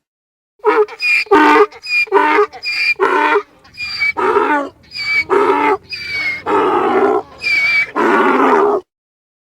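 An animal calling over and over, about a dozen short pitched calls in quick succession, the last few longer, stopping shortly before the end.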